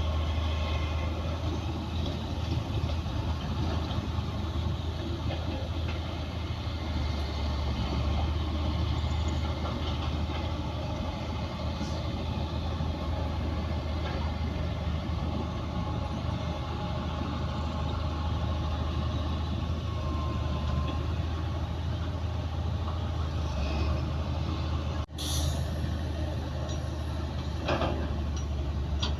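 Heavy earthmoving machinery, a bulldozer and dump trucks, running steadily with a deep engine drone, with a brief drop about 25 seconds in and a few sharp knocks near the end.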